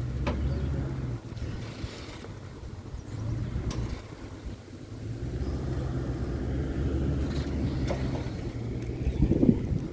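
A vehicle's engine running with a low steady drone that comes and goes in surges as it works to tow a large trailer, with a few sharp clicks and a louder burst of noise near the end.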